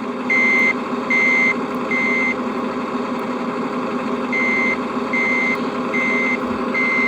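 RC truck sound module playing a reversing beeper through the model's speaker: a high beep repeating about every 0.8 s over a steady idling engine sound. The beeps stop for about two seconds midway, then start again.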